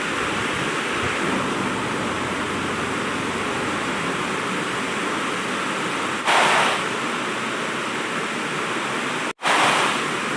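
Waterfall rushing, a steady wash of water noise, with two brief louder surges about six and nine and a half seconds in.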